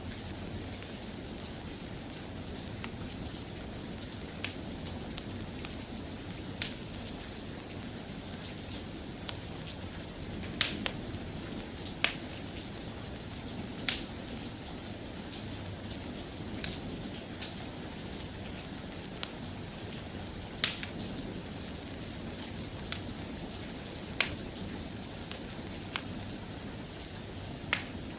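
Soft, steady rain as an even hiss, with a dozen or so sharp pops scattered irregularly through it, like crackles from a wood fire in a fireplace.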